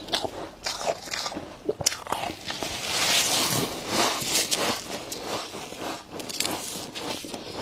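Freezer frost crunching as it is bitten and chewed: a string of sharp crunches, with a denser, longer stretch of crunching about three seconds in.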